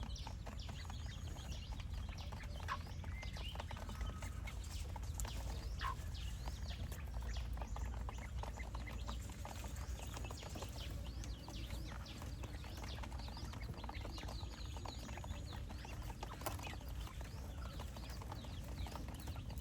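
A flock of quail making many short, scattered chirps and calls over a steady low rumble.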